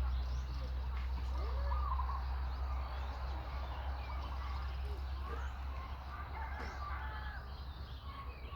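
Many short, high chirping and squeaking animal calls, scattered and overlapping, over a steady low rumble.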